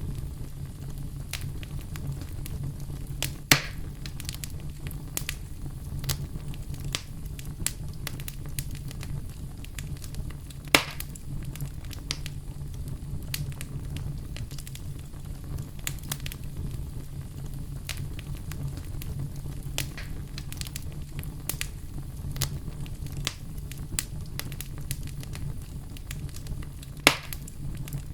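Bonfire burning: a steady low rumble with frequent small crackles and three louder pops, a few seconds in, about eleven seconds in and near the end.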